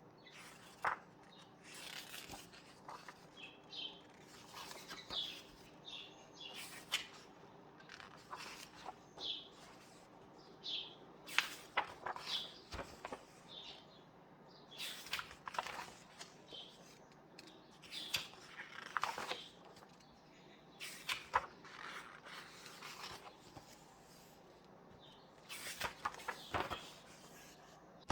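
Paper pages of a book being turned and handled, rustling and flapping every second or two, with short high bird chirps mixed in.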